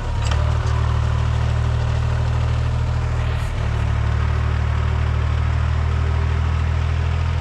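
Mahindra Sarpanch 275 DI TU tractor's three-cylinder diesel engine running steadily with a deep, even drone while pulling a plough, with a brief dip about three and a half seconds in.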